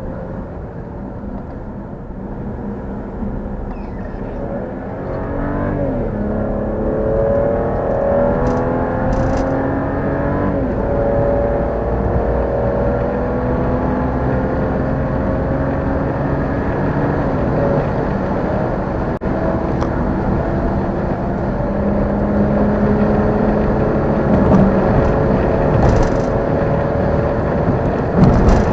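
BMW N55 turbocharged inline-six accelerating through the gears. The engine note climbs slowly in each gear and drops back at several upshifts.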